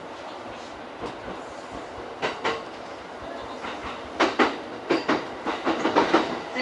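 JR East E231-series commuter train running between stations, heard from inside the lead car: a steady rumble with the wheels clacking over rail joints in quick pairs. The clacks come more often and louder toward the end.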